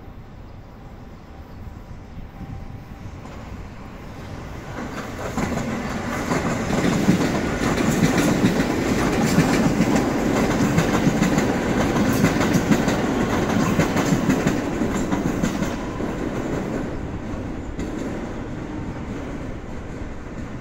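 Six-car JR West 227 series electric train passing close by, its wheels rumbling and clattering over the rail joints. It grows louder from about four seconds in, is loudest through the middle as the cars go past, and fades as it moves away.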